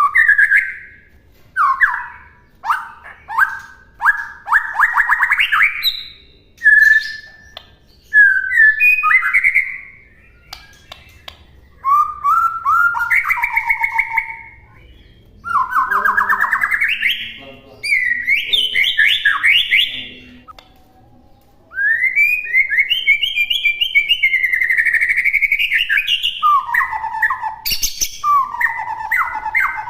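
White-rumped shama (murai batu) singing a loud, varied song of whistled phrases and fast trills, some short and some several seconds long, with brief pauses between them.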